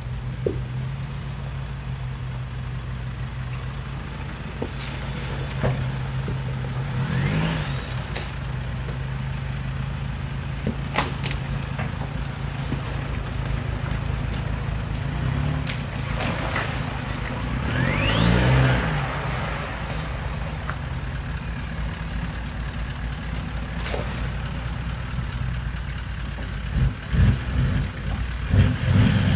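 Four-wheel-drive vehicle's engine running steadily while driving, with two short rising whines and a few clicks along the way. Several louder knocks and bumps come near the end.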